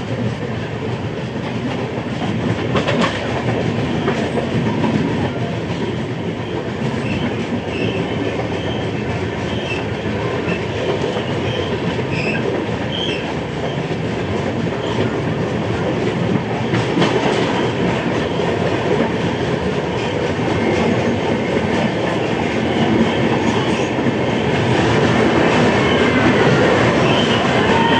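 Express passenger train running on the track: a steady rumble of wheels on rail with clickety-clack from the rail joints, growing a little louder near the end.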